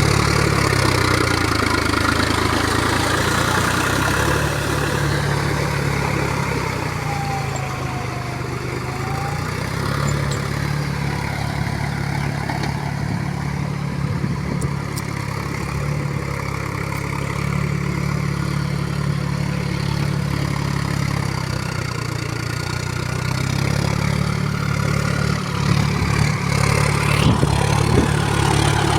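Heavy diesel engine running steadily, its note easing and swelling with load, with a few clanks near the end.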